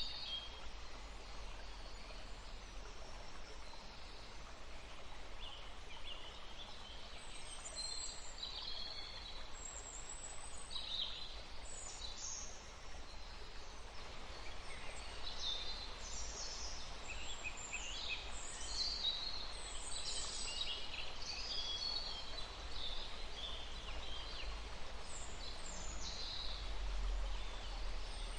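Several small birds chirping and calling over one another in quick, short rising and falling notes, sparse at first and busier through the second half, over a steady low rumble.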